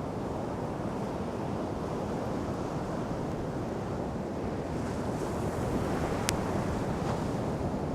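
Steady wash of ocean surf with wind on the microphone, getting a little louder in the second half, and a single sharp click about six seconds in.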